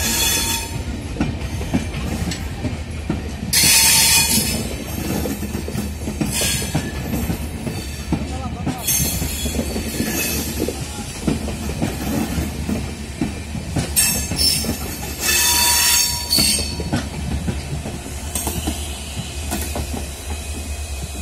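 Passenger coaches of a train rolling past at low speed, wheels rumbling and clacking over the rail joints. Their wheels squeal loudly and high-pitched several times: about four seconds in, around nine seconds in, and again from about fifteen to seventeen seconds in.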